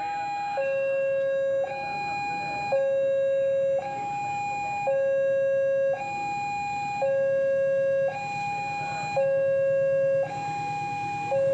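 Two-tone electronic warning alarm sounding steadily, switching between a higher and a lower tone about once a second.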